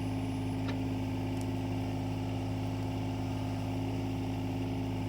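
Excavator's diesel engine running steadily at an even pitch while it digs, with a faint tick or two about a second in.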